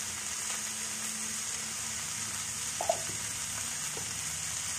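Potatoes, peas and fenugreek leaves sizzling steadily in a pan of mustard oil, with a single brief clink about three seconds in.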